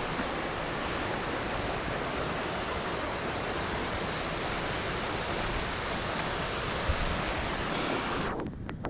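Steady rush of a mountain stream's water at a waterfall, a dense even hiss; near the end it dulls and drops in level for about a second.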